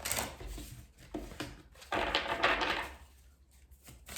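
Tarot cards being shuffled and handled: a dry papery rustle with a few light clicks and taps, loudest from about two to three seconds in.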